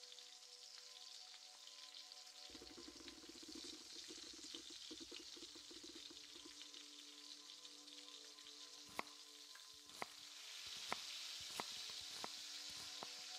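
Faint sizzling of food frying in a pan: a steady hiss with a low crackle from a few seconds in. In the second half the sizzle grows a little stronger, and about six sharp ticks stand out.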